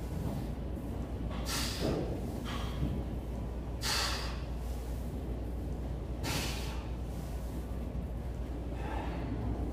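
Heavy breathing of a man working out: four sharp, noisy exhales about every two and a half seconds, over a steady low hum.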